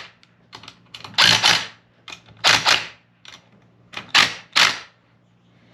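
Ratchet wrench clicking in four short strokes, running the differential's bolts in before they are torqued down, over a faint steady hum.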